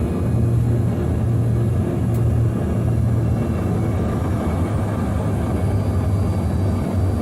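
Passenger airliner's engines running with a steady low rumble and hum.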